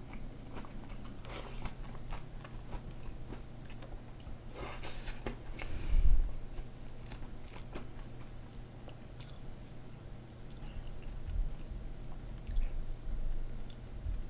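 Close-miked chewing and biting of knife-cut noodles, with many small wet clicks and a short noisy burst near the middle. About six seconds in comes a dull low thump, the loudest sound.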